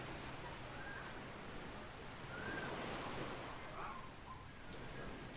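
A few short, faint bird calls over a steady outdoor hiss.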